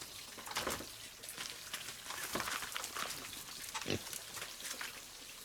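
Pigs grunting a few short times, with a scratchy rustle in between.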